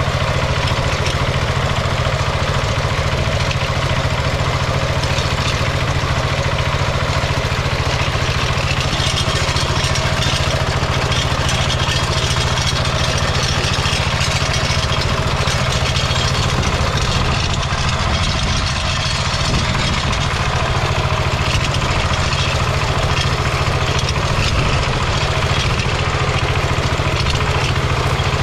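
Kentavr MB 1010DE walk-behind tractor's diesel engine running steadily, dipping slightly in level once about two-thirds of the way through.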